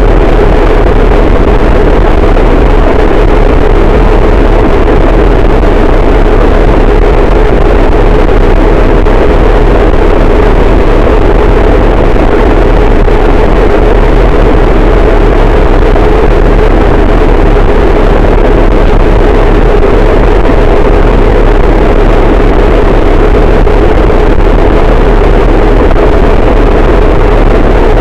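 Harsh noise wall: a dense, unchanging wall of distorted noise, very loud and compressed, thickest in the low-middle range with a deep rumble underneath and no rhythm or change in level.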